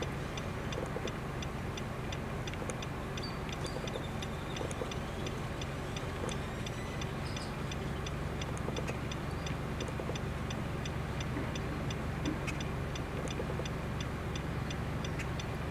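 Outdoor background: a steady low rumble, with a faint, regular high ticking about two to three times a second.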